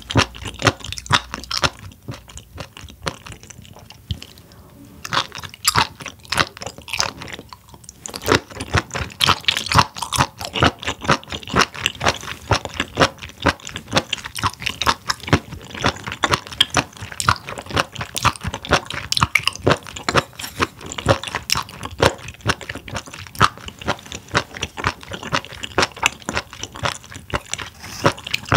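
Close-miked chewing of raw spoon worm, dense crunchy bites in quick succession. The chewing is quieter and sparser for a few seconds early on, then comes thick and loud again from about eight seconds in.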